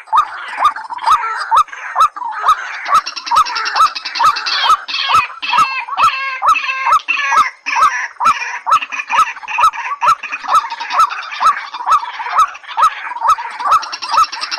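Calls of rails, white-breasted waterhen and watercock: a steady run of short repeated calls, about two a second, each with a sharp click, with a faster, higher chattering in the middle.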